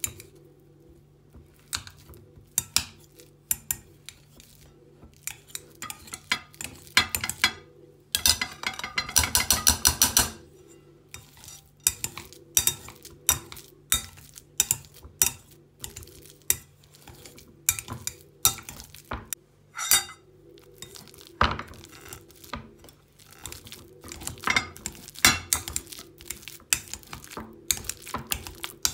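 Kitchen utensils clinking and knocking against bowls and dishes in many separate, irregular strikes, with a dense run of rapid strokes for about two seconds partway through.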